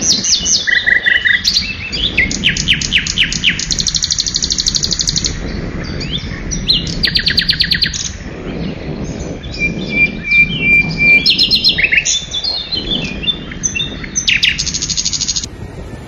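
Several songbirds singing and chirping, with fast trills of evenly repeated notes and quick chirps, over a steady low background noise.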